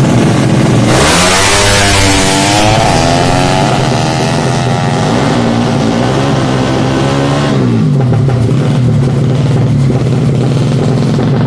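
Yamaha Jupiter drag bike's single-cylinder four-stroke engine, built to 155 cc, revved hard about a second in with a loud hissing rush, its pitch wavering, then rising and falling once more before settling back to a steady idle for the last few seconds.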